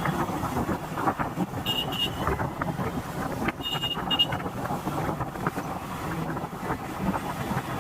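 Road traffic noise with wind on the microphone, broken twice by short, high vehicle horn beeps: a pair of beeps about two seconds in and a group of beeps near four seconds in.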